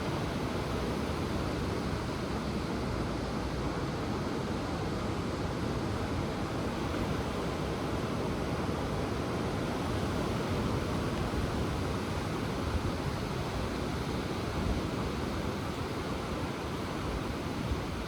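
Ocean waves washing onto the shore, a steady rushing noise without any distinct breaking crashes.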